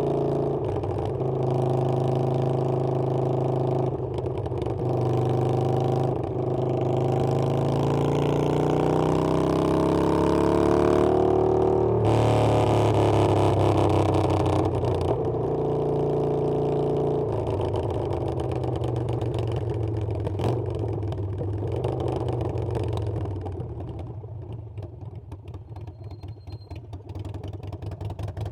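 Harley-Davidson Sportster Iron 883's air-cooled V-twin running under way: its pitch rises as it accelerates for several seconds, drops sharply at a gear change about twelve seconds in, then holds steady and falls to a lower, quieter run near the end.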